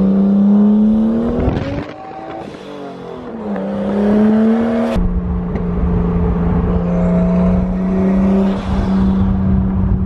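Car engine running while driving, heard from inside a moving car along with road noise. About a second in the revs climb, around three seconds in they drop back, and from about halfway through the engine runs steadily.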